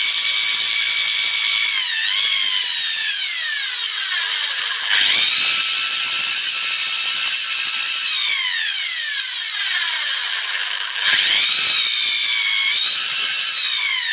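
Electric drill whining at high speed while boring holes in a fridge door basket. The pitch sags and slowly falls as the bit is loaded, and the motor revs back up sharply about five seconds in and again near eleven seconds.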